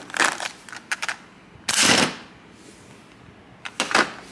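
Spring-loaded mouse snap trap being handled and set off: a series of sharp metal clicks, with one louder snap about two seconds in and a few more clicks near the end.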